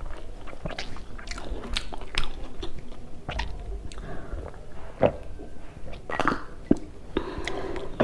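Close-up mouth sounds of a person biting and chewing fried chive pakoras (nakuppi bora) with rice: irregular wet smacks and crisp crunchy clicks.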